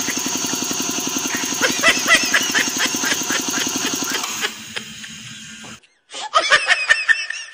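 Belt-driven piston air compressor running with a fast, even pulsing beat and a steady high whine. It grows quieter about four and a half seconds in and stops about six seconds in; a short burst of higher chirping sounds follows.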